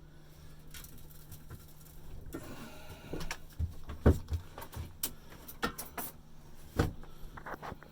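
Scattered knocks, clicks and clinks of tools and metal exhaust parts being handled, the loudest knocks about four seconds in and again near the end, over a steady low hum.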